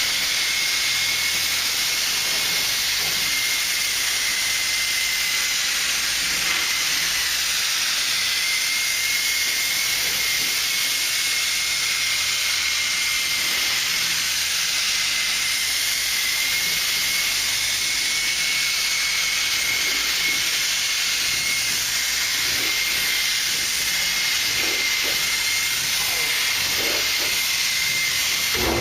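Paint spray gun hissing steadily as compressed air sprays clear coat, with a thin steady whistle through the hiss. It cuts off suddenly at the end.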